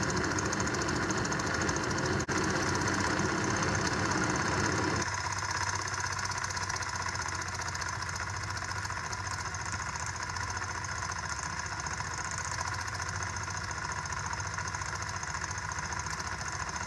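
Self-made Stirling engine running fast, near 1000 rpm, with a steady rapid mechanical clatter. About five seconds in, the lower part of the sound drops away and it runs on a little quieter.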